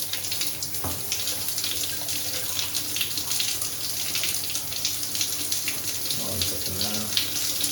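Water running steadily from a Grohe thermostatic mixer shower just after its valve cartridge was replaced, a continuous splashing hiss.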